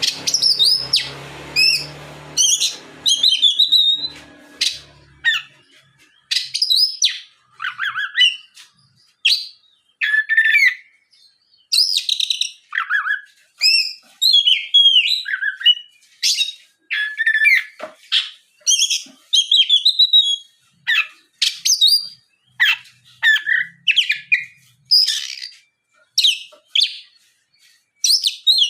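Oriental magpie-robin (kacer) singing a fast, continuous string of short, varied whistled phrases with quick glides in pitch, one after another with brief gaps. A faint low hum runs under the first few seconds.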